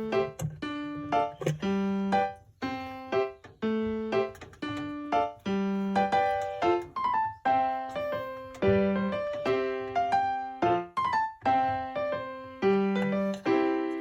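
Background piano music: a keyboard playing a light melody of struck notes over a repeating bass pattern.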